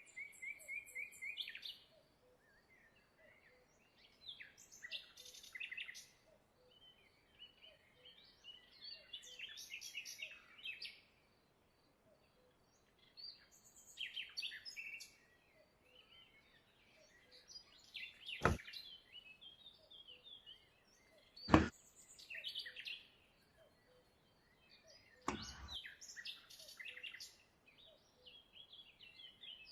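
Birds chirping in short bursts of high calls, with three sharp clicks in the latter half.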